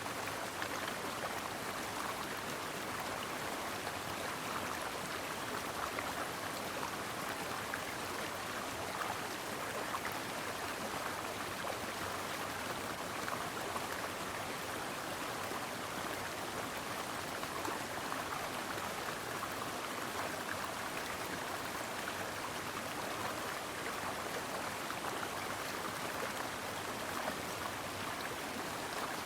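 Brook water flowing, a steady, even rushing without breaks.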